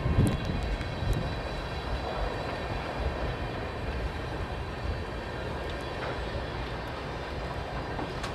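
Freight train rolling steadily past, a continuous rumble of wheels on rail with faint high ringing tones and scattered light clicks. A gust of wind hits the microphone right at the start.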